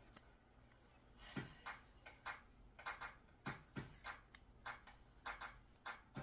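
A quiet run of irregular light clicks and taps, about a dozen in the last four and a half seconds.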